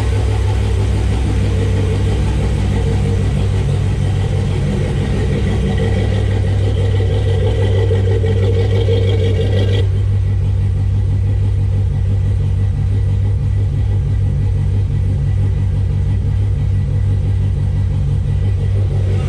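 Chevrolet Corvette LS V8 with a freshly installed BTR Stage 2 cam, idling steadily with an even pulse in its exhaust note. A higher hiss over it cuts off suddenly about halfway through.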